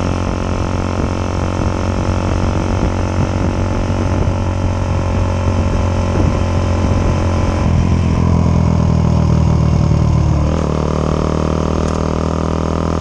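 Suzuki Satria FU 150's single-cylinder four-stroke engine running through a hollowed-out ('bobokan') stock muffler, very loud. Its note holds steady, swells with a slowly falling pitch about eight seconds in, then drops back about two seconds later.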